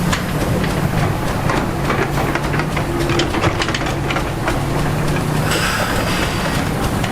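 Heavy diesel engine of a crawler bulldozer running steadily, with a stream of short metallic clanks and squeaks from its steel tracks.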